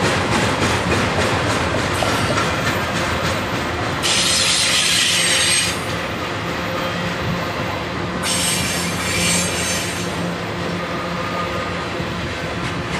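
Freight cars of a long intermodal train rolling past, with wheels clicking steadily over the rail. Two bursts of high-pitched wheel squeal come through, one about four seconds in and one about eight seconds in, each lasting under two seconds.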